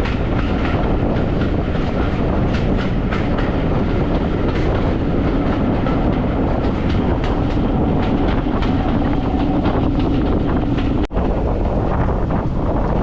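Train running along the rails with a steady rumble and repeated clicks of wheels over rail joints, broken by a momentary dropout about eleven seconds in.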